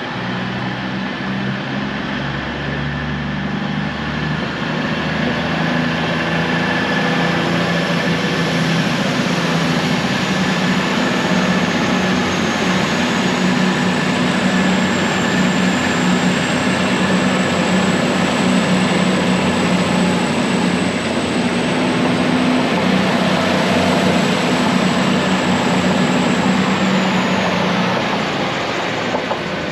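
Passenger train running with a steady low drone and a high whine that climbs about a third of the way in, holds, and falls away near the end.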